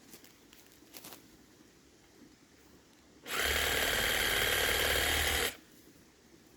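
Reciprocating saw run in one short burst of about two seconds at a steady speed, starting and stopping sharply. A few faint clicks come before it.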